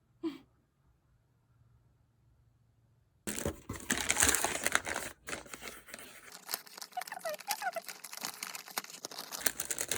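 Packaging crinkling and rustling as a package is handled and unwrapped, starting abruptly about three seconds in, with many small crackles.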